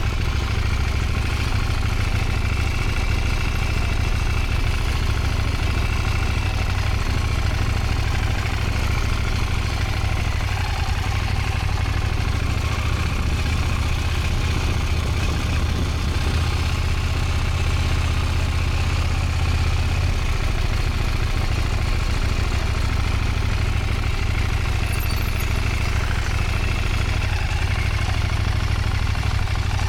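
Motorcycle engine running steadily at low revs during slow practice riding, with a deeper held note for several seconds around the middle.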